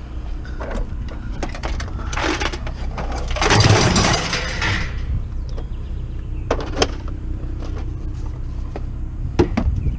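A vehicle engine idles steadily under scattered knocks and clicks of metal scrap being handled. A louder scraping clatter comes about three and a half seconds in and lasts over a second.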